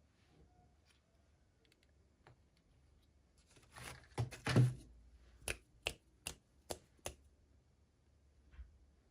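Hands handling plastic toy packaging: a brief crinkling rustle, then a run of five sharp clicks about evenly spaced, and one faint click near the end.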